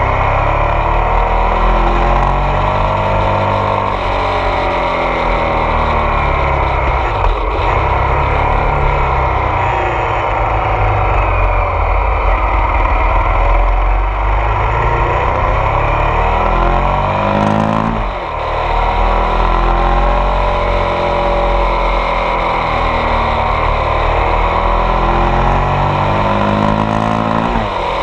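Ducati Multistrada 1200 S DVT's 1198 cc Testastretta V-twin heard from on board while riding, its revs rising and falling through the bends. The pitch drops sharply about eighteen seconds in and again near the end.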